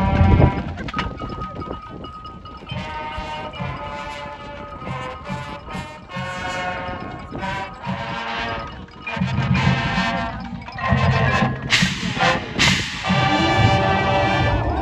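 Marching band playing, horns holding chords over drum beats, with a few loud sharp percussion hits near the end.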